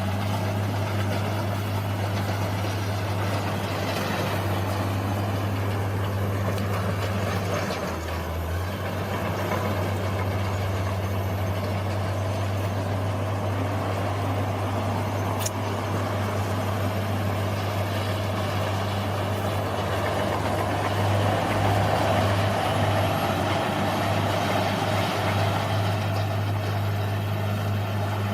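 Bulldozer's diesel engine running steadily, its pitch dipping briefly about eight seconds in and again about twenty-one seconds in.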